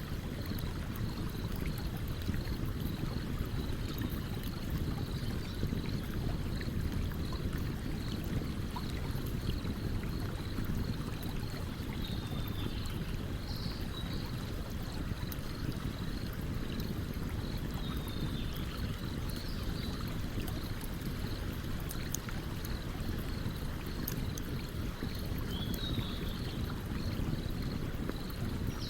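Stream water running steadily, with a campfire's scattered small crackles on top. A faint high chirp pulses about twice a second throughout, and a few short falling chirps come and go.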